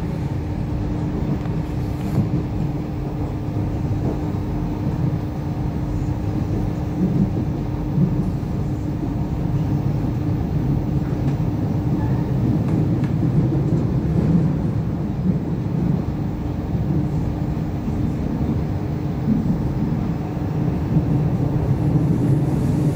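DART 8520 class electric train running along the line, heard from inside the carriage: a steady rolling rumble with a constant hum.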